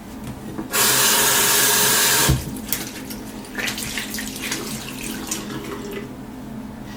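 Bathroom tap running hard for about a second and a half, then shut off, followed by a few seconds of water splashing.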